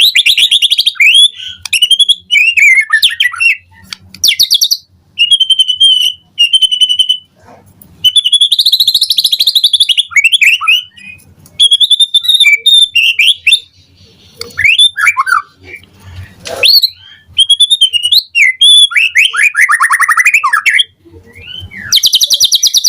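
White-rumped shama (murai batu) singing loudly, a varied run of clear whistles, sweeping glides and rapid trills in quick phrases broken by short pauses.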